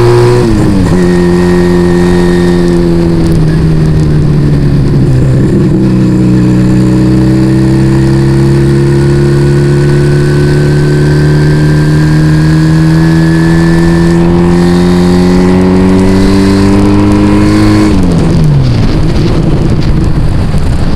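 Yamaha Vega ZR motorcycle engine running through an aftermarket Arrow exhaust while riding. The pitch drops sharply just after the start and again a few seconds in, then climbs slowly for about twelve seconds as the bike accelerates, and falls off near the end.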